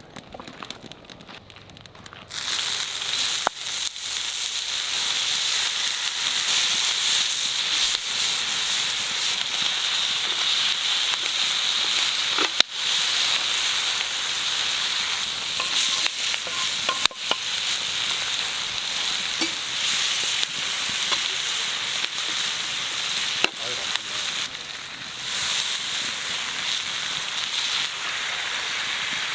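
Food sizzling loudly in hot fat, a steady hiss that starts suddenly about two seconds in, with a few light knocks.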